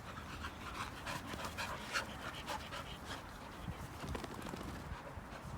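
Labradoodle dogs panting with quick, rapid breaths after chasing a thrown ball.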